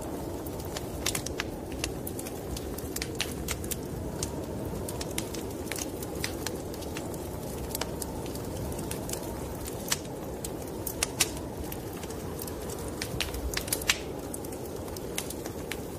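Wood fire crackling, with irregular sharp pops and snaps, over a steady low whoosh of wind.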